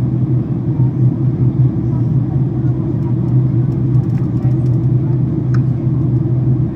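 Steady cabin drone of a Boeing 767-400ER airliner in descent: engine and airflow noise, a constant low hum with a few faint ticks about four to five and a half seconds in.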